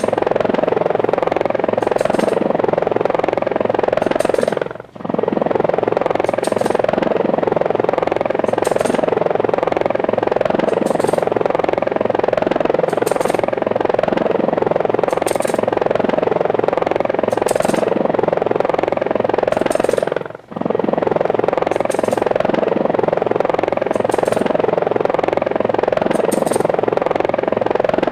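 Small helicopter's rotors and motor whirring steadily, dropping out briefly twice, about five seconds and about twenty seconds in.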